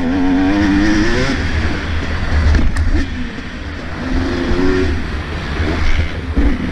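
Motocross motorcycle engines revving hard, the pitch rising in a surge at the start and again about four seconds in, over a deep steady rumble.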